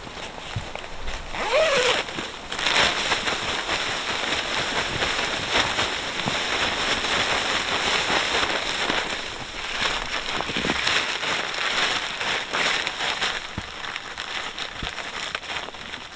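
Wood campfire crackling: a steady hiss full of small pops, with a short rising squeal about a second and a half in.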